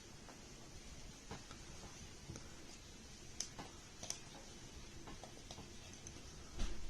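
Faint, scattered clicks and taps of a small screwdriver on the screws and plastic parts of an RC car while a servo is being screwed in.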